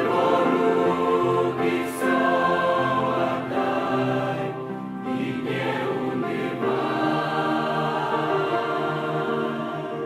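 A choir singing a hymn in held, slowly changing chords.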